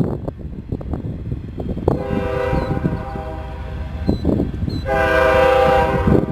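Diesel locomotive air horn sounding two blasts, a longer one about two seconds in and a louder one near the end, over the low rumble of the train.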